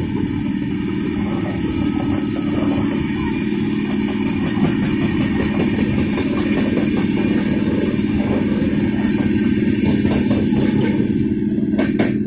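Two trains running side by side on parallel tracks, heard from the open doorway of one: a steady rumble and hum with the clatter of wheels over the rails.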